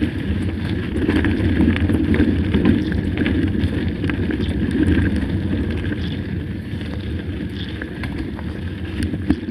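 Mountain bike riding: a steady rush of wind over the camera microphone over a low rumble of tyres on the track, with small scattered clicks and rattles.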